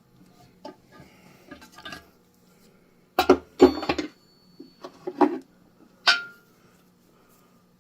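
Metal hand tools clinking and knocking against metal in a few quick clusters, the last strike leaving a brief ringing.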